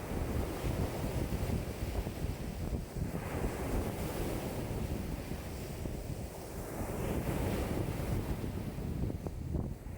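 Wind-driven waves washing and breaking along a lake shore in a strong wind, with wind buffeting the microphone as a low rumble. The wash swells and eases over a few seconds at a time.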